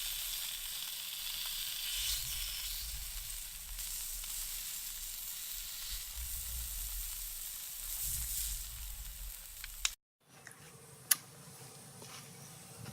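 Pig kidneys frying on a hot steel pan, a steady sizzle that cuts off suddenly about ten seconds in. A quieter stretch with a few clicks follows, one of them sharp.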